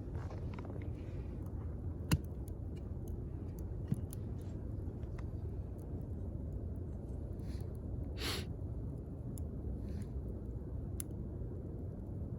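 Wood fire burning with a steady low rush and scattered sharp crackles and pops, the loudest about two seconds in. A short hiss comes a little after eight seconds.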